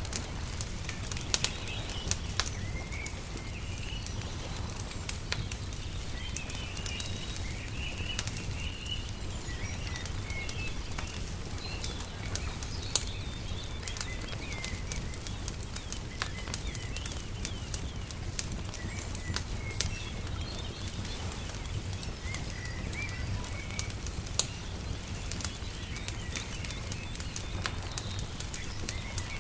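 Wood fire crackling with frequent sharp pops while small birds chirp and twitter on and off, over a steady low rumble.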